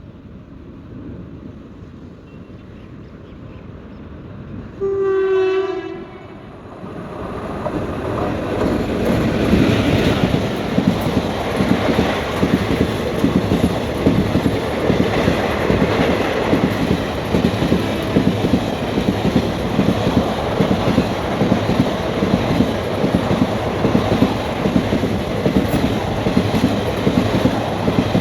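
A train horn sounds one blast of about a second. Then a train approaches and rushes past at speed, its wheels clattering over the rail joints in a fast, steady rhythm.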